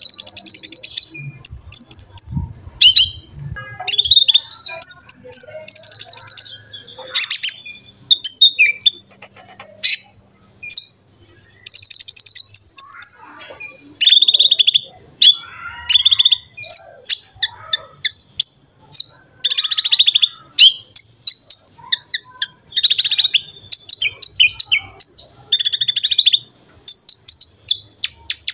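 Konin (kolibri ninja) sunbird singing loudly: a fast, near-continuous string of high, sharp chirps and rapid trills with short pauses between phrases.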